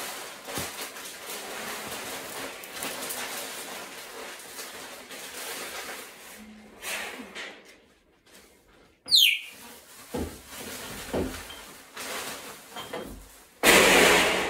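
Rustling and handling noises from cage cleaning. About nine seconds in, a pet parrot gives a short whistle that falls sharply in pitch. Near the end comes a loud harsh burst of noise, under a second long.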